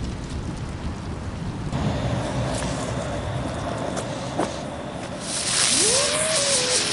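New Year's Eve fireworks: continuous crackling and hissing with scattered sharp bangs. About five seconds in, a louder hiss starts, with a whistle that rises in pitch and then falls away.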